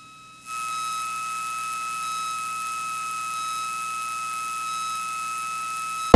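Cessna 205 Stationair's six-cylinder piston engine and cabin noise coming through the headset intercom, cutting in about half a second in and then holding steady, with a constant high whine over it.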